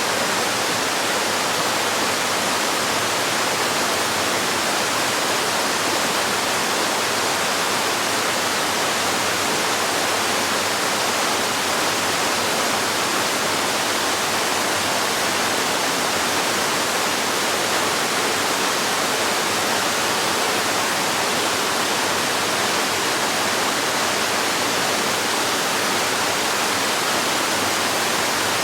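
Waterfall splashing and rushing in a steady, unbroken hiss, mostly high and bright with little deep rumble.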